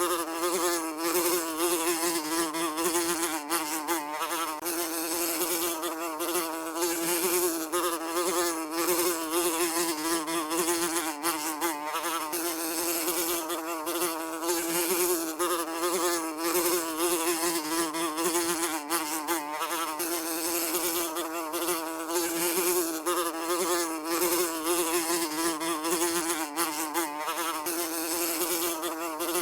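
A housefly buzzing continuously, its steady wingbeat drone wavering slightly in pitch as it flies.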